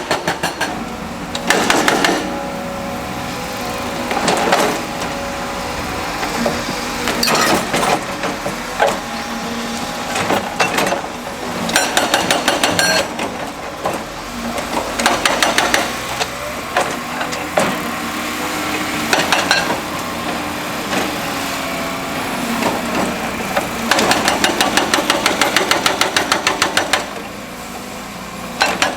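A hydraulic percussion tool pounding rock in repeated bursts of rapid, evenly spaced blows, several a second, the longest lasting about three seconds near the end. A heavy diesel machine runs steadily underneath.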